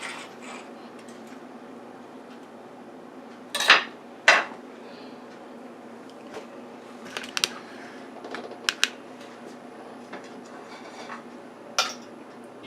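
Cutlery clinking and scraping against a plate in scattered sharp clicks, the loudest pair about four seconds in, over a faint steady hum.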